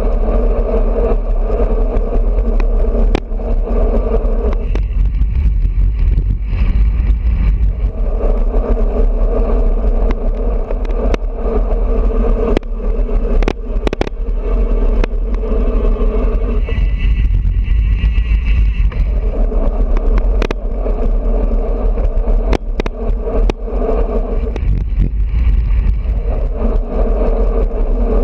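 Wind rushing over a bicycle-mounted GoPro and tyre and road noise from a road bike riding at speed, with scattered sharp knocks from bumps in the road.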